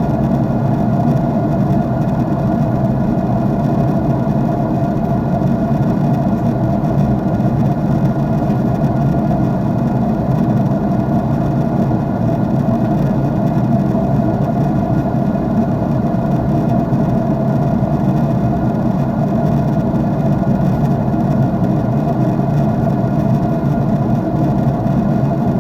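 Airliner cabin noise in flight: the jet engines' steady, unchanging drone and hiss, heard inside the cabin at a window seat.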